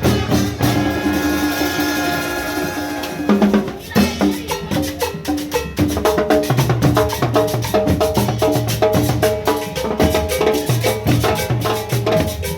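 Marching band playing: dense drums and percussion keep a fast beat under a melody. The melody holds long notes for the first few seconds, then moves to short repeated notes.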